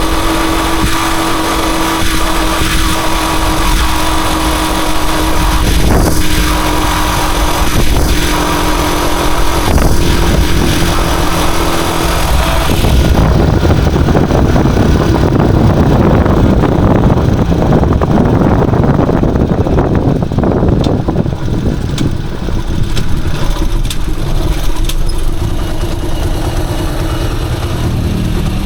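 Rusi Chariot 175 motorcycle engine running while riding, a steady drone for about the first twelve seconds. After that a rougher rushing noise, typical of wind on the microphone at speed, takes over the engine sound.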